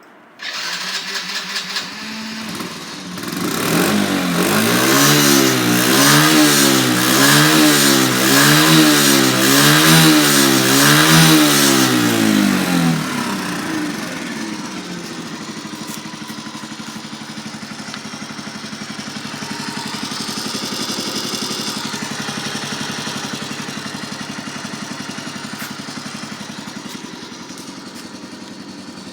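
1993 Honda Super Cub 50 Custom's small four-stroke single-cylinder engine starting, then revved up and down in quick rhythmic blips about once a second for several seconds, before settling to a steady idle.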